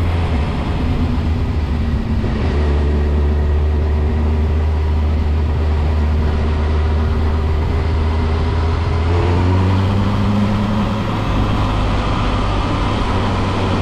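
Motorcycle engine running with the sound of a bad, worn chain audible in its noise. The engine note changes about nine seconds in.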